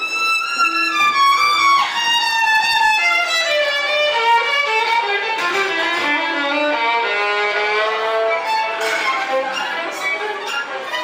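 Live violin playing a fast solo, a phrase running downward over the first few seconds and then a rapid string of short notes, with a few sharp strums or knocks near the end.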